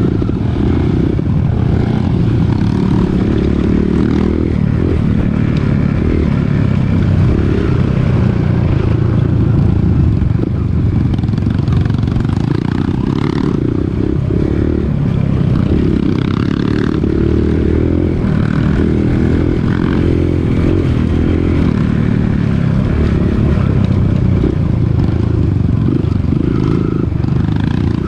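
Dirt bike engine running steadily while riding, with scattered short knocks and rattles over rough ground.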